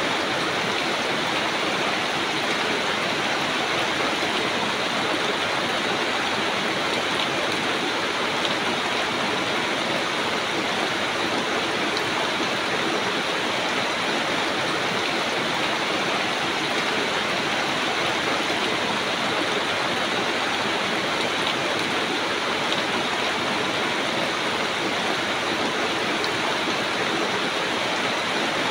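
Rain falling on broad banana leaves and the surrounding foliage: a steady, even hiss that holds without a break.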